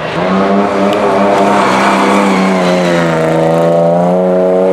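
Rally car's engine running hard at high revs as the car passes on a gravel stage, its pitch dropping about halfway through and then holding steady.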